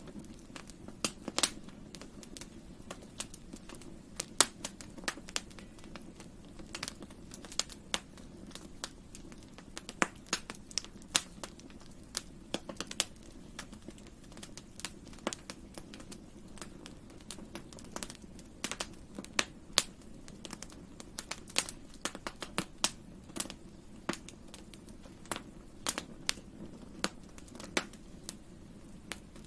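Campfire of burning wood crackling: irregular sharp pops and snaps, some louder than others, over a steady low background.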